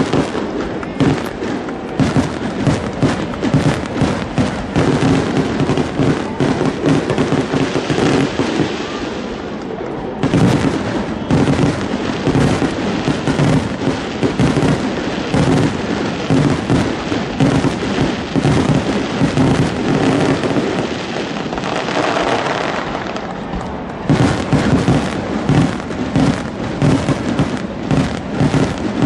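Aerial fireworks shells bursting in a dense, rapid barrage of bangs and booms, with brief let-ups around ten seconds in and again near twenty-three seconds.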